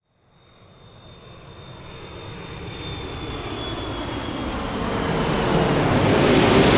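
Jet airplane engine noise swelling up from silence, a wide rush that grows steadily louder with a faint high whine sliding slightly lower.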